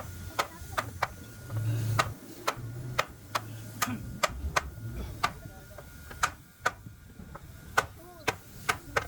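A run of sharp, irregular taps and knocks, about one or two a second, from hand tools striking in woodworking, over a low uneven rumble.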